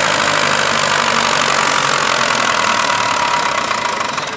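Leyland 272 tractor's diesel engine running hard under full load, dragging the pulling sled down the track. The sound is loud and steady, then eases off a little near the end.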